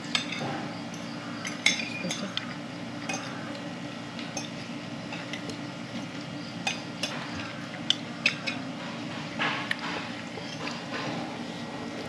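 Cutlery clinking against plates and dishes in scattered light clicks over a steady low background hum.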